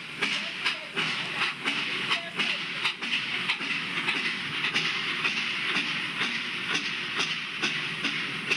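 Recorded steam-train sound effect: wheels clacking in a steady clickety-clack rhythm over a continuous hiss.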